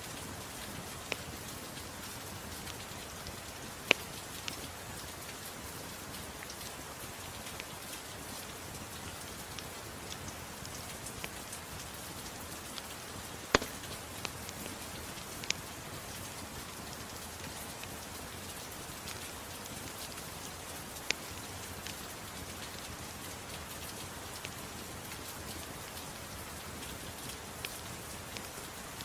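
Steady, even rainfall with a wood fire crackling, a few sharp pops standing out, the loudest about four seconds and thirteen seconds in.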